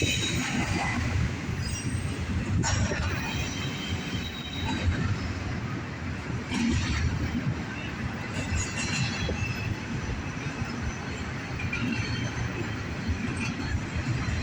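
Freight cars of a CSX double-stack intermodal train rolling past close by: a steady rumble of wheels on rail, with intermittent high-pitched wheel squeal.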